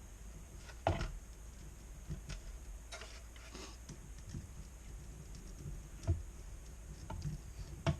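Scattered light clicks and knocks from a TIPM fuse box and its circuit board being handled, the sharpest about a second in.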